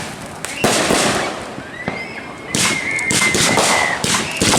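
Consumer fireworks going off: a sharp bang just over half a second in, then a high whistle held for about two seconds, with rapid crackling pops starting about halfway through.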